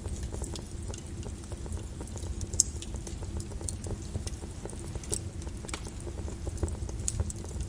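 Flowing lava: a steady low rumble with constant crackling and popping, and a few louder sharp cracks, the loudest about two and a half seconds in.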